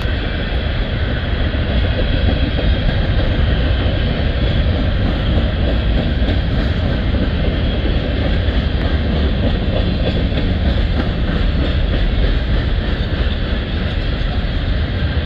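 Covered hopper cars of a long CSX freight train rolling past close by: a loud, steady rumble of steel wheels on rail that holds without a break.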